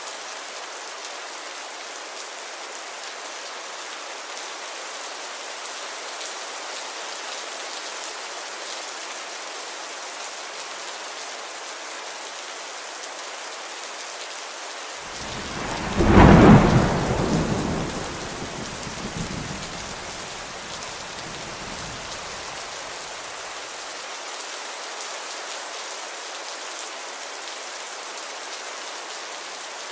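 Steady rainfall with a single clap of thunder about halfway through: a sudden loud crack that rolls off into low rumbling over the next several seconds before the rain alone continues.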